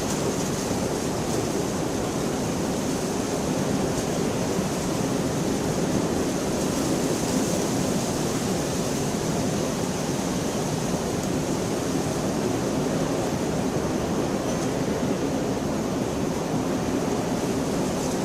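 Steady rainfall: an even, continuous hiss that holds level throughout.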